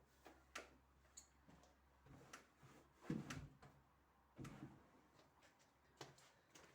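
Faint scattered clicks and a few soft, dull knocks from household objects being handled. The loudest is a dull knock about three seconds in, with another about a second and a half later.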